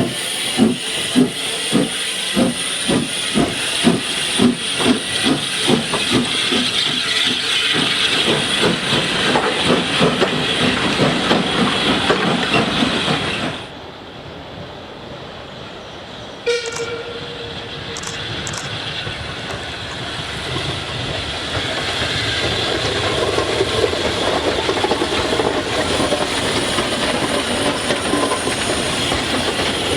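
Hunslet 'Austerity' 0-6-0ST saddle tank steam locomotive working hard, its exhaust beats at about two a second merging into a steady rush as it passes. After a sudden drop in level about halfway through there is a brief whistle, then the rising noise of the train rolling along the rails.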